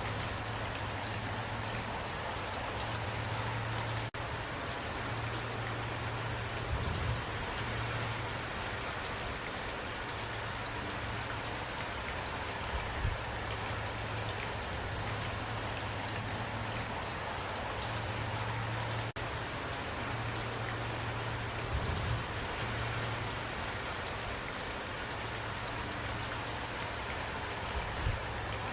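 Steady rain falling, drops pattering on a surface, over a low rumble, with a few soft low bumps. The sound cuts out for an instant twice.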